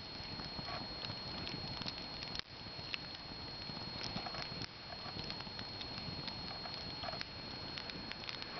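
Campfire burning, the wood crackling with frequent sharp pops over a steady hiss.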